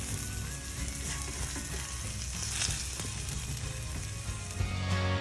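Quesadilla with cheese and chicken taco meat sizzling steadily as it fries in an unoiled pan, with faint background music.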